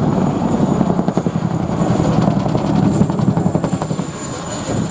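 Boeing Chinook HC.2 tandem-rotor helicopter flying a display manoeuvre overhead. Its rotors beat in fast, regular pulses, with a steady high turbine whine above them.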